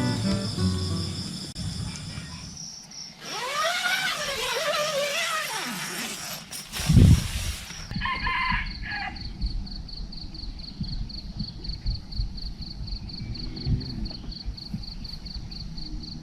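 A rooster crows, a drawn-out call that arches up and down in pitch over a hiss, ending abruptly about eight seconds in. Under and after it an insect trills steadily with a fast even pulse, while low thumps of wind hit the microphone.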